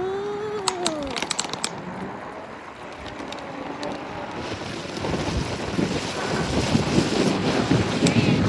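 Wind buffeting the microphone on a moving e-bike, growing louder in the second half as the bike picks up speed. Near the start a short whine rises and falls in pitch, with a few sharp clicks about a second in.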